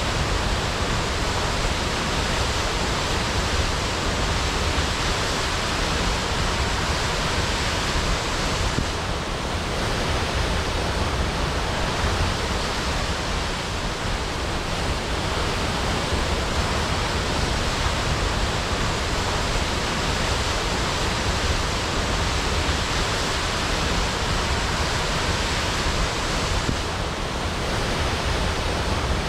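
Waterfall crashing: a steady, dense rush of falling water with a deep rumble underneath.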